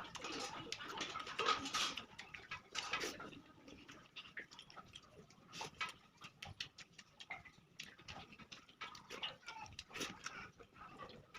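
Close-up eating sounds of rice and curry being chewed: wet chewing, lip smacks and mouth clicks, busiest in the first few seconds and then sparser.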